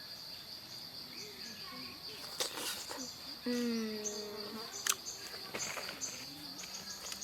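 Steady high drone of forest insects throughout, with a few sharp clicks. About halfway through, a person hums a steady "mmm" for about a second while tasting fruit.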